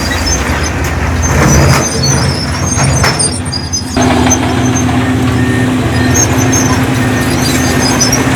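Heavy diesel earthmoving machinery running, with a continuous engine drone and faint high squeaks over it. About four seconds in the sound changes abruptly to a steadier engine note.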